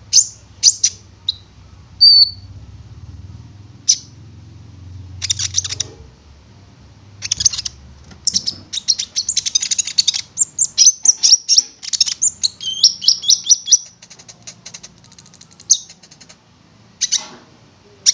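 A konin songbird singing loudly in sharp chirps and quick runs of notes, with a dense fast stretch in the middle and a short series of notes stepping down in pitch after it. This is the kind of full, varied song used as a lure recording to set other konin singing.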